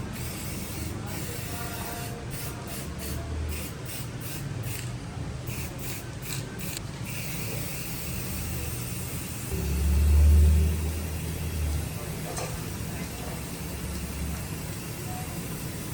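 Steady spray or compressed-air hiss, broken by short gaps early on, over a low hum that swells loudest about ten seconds in.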